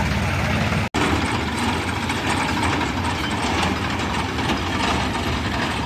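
Tractor diesel engine running steadily at idle, with an even low rhythmic beat. The audio cuts out for a split second about a second in.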